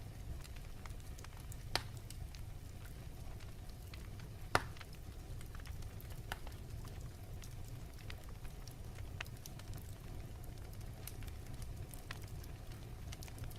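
Wood fire in a fireplace crackling, with a steady low rumble and scattered sharp pops; two louder pops come about two seconds and four and a half seconds in.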